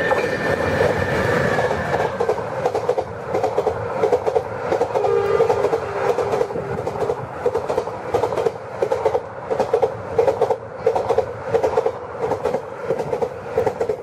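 Indian Railways express with an electric locomotive passing through a station at speed. Its horn sounds two steady tones as it arrives and stops about two seconds in. Then the coaches rush past with a rapid clickety-clack of wheels over the rail joints.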